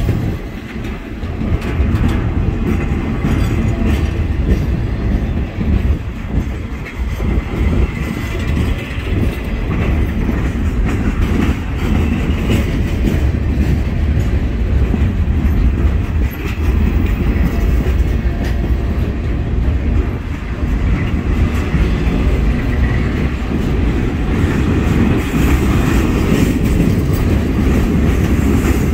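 Freight cars (boxcars and open-top gondolas) rolling past close by on steel rails: a steady low rumble of wheels on track, with wheels clicking over the rail joints.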